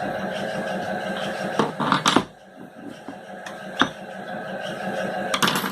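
Metal clinks and clicks of a hand tool on a sewing machine's metal parts as a nut is tightened back on: a short cluster of clinks about two seconds in, a single click near four seconds and another cluster near the end, over a steady hum.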